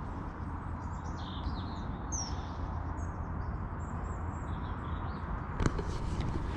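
Small birds chirping and calling, short high notes scattered through the first few seconds, over a steady low outdoor rumble; a single sharp click near the end.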